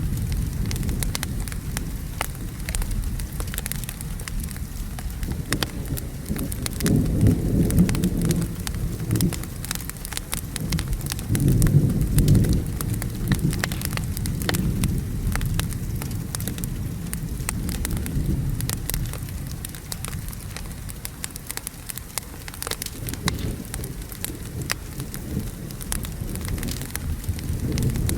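Wood fire crackling with frequent sharp pops over steady rain. Low thunder rolls in twice, once about a quarter of the way through and again near the middle.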